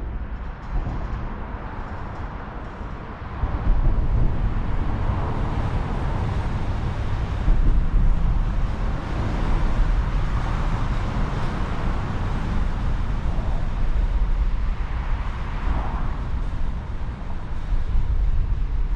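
Steady outdoor noise, a low rumble under a hiss, getting louder about three and a half seconds in.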